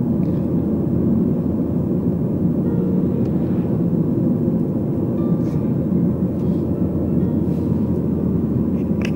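Steady low rumble of engine and road noise inside a moving vehicle, with a few faint clicks.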